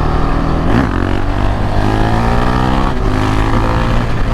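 KTM 690 Duke R's single-cylinder engine accelerating hard under the rider: the pitch climbs for about two seconds, drops at a gear change about three seconds in, then climbs again.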